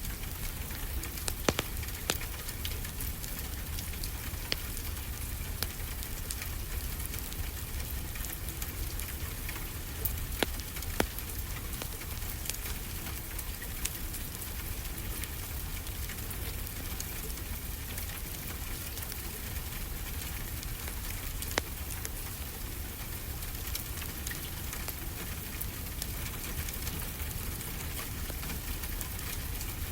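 Wood fire crackling, with scattered sharp pops and a few louder snaps, over a steady wash of ocean surf with a low rumble.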